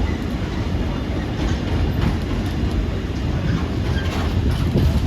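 A train passing close by, giving a steady low rumble.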